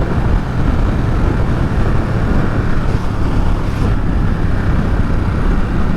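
Ducati Supersport 950 S's 937 cc L-twin engine running while riding, mixed with heavy wind rush on the helmet microphone.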